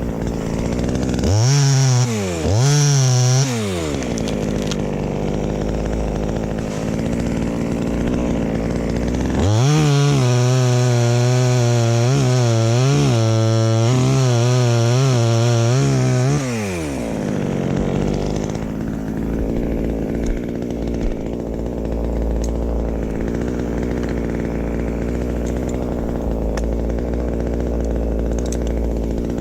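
Two-stroke chainsaw idling, blipped to high revs twice briefly near the start, then held at high revs for about seven seconds with a wavering pitch before dropping back to idle.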